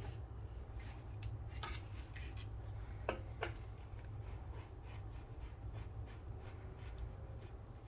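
Steady low hum with a few light clicks and taps of small objects being handled on a work surface.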